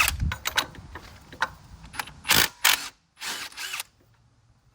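Ratchet wrench clicking in short bursts, with sharp metal clicks, while an engine-mount bolt is worked loose. It goes quiet about a second before the end.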